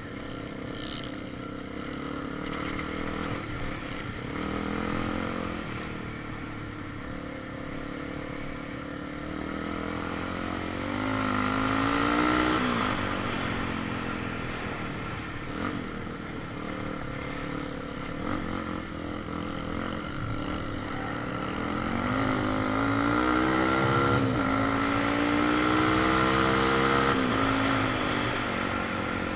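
A motor vehicle's engine running, its pitch climbing as it speeds up and then dropping, about half way through and again near the end.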